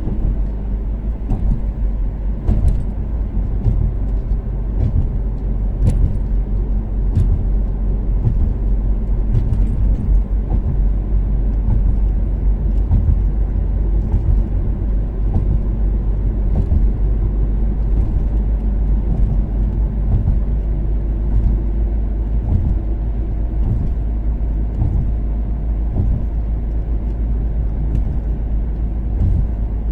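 Toyota Caldina's turbocharged 3S-GTE four-cylinder engine cruising at a steady pace on an expressway, under a constant low road rumble. Scattered light ticks and knocks run through it.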